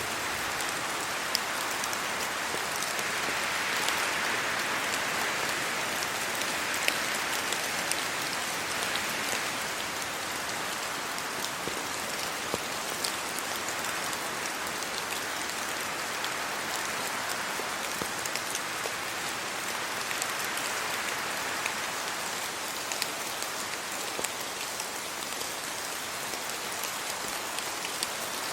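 Steady rain falling on trees, leaves and a road, with scattered individual drops ticking over the even hiss, which swells slightly in the first ten seconds.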